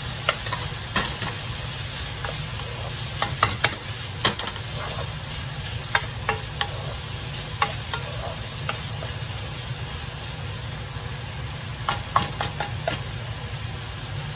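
Diced beef frying in a nonstick wok, sizzling steadily as a wooden spatula stirs it, with scattered clicks and scrapes of the spatula against the pan.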